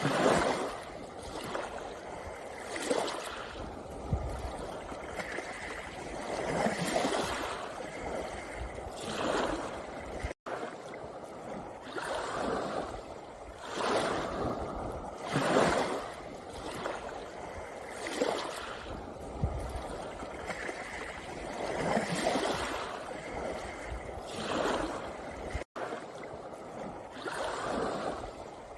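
Sea waves breaking and washing over a pebble beach, a fresh swell of rushing water every two to three seconds. The sound cuts out for an instant twice.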